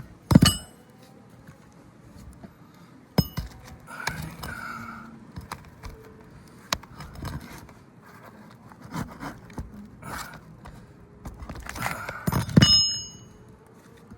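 Metal roofing tool striking and prying at nails under an asphalt shingle: three sharp metallic strikes that ring briefly, near the start, about three seconds in and near the end, with lighter knocks and scraping in between.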